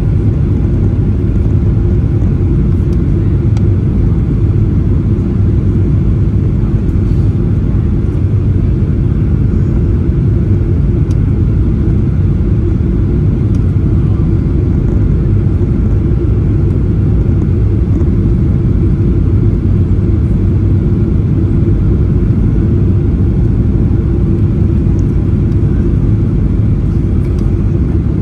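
Steady low rumble of a jet airliner's cabin noise, engines and airflow heard from inside the cabin.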